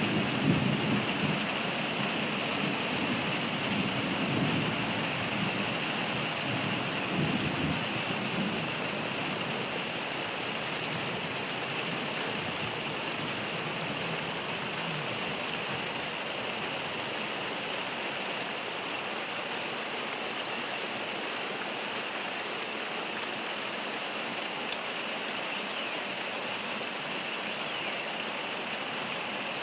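Heavy rain falling steadily in a thunderstorm. A low rumble of thunder rolls through the first eight seconds or so and fades.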